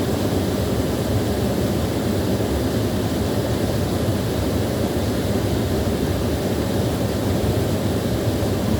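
Small waterfall: water pouring steadily, a continuous low rushing with no change in level.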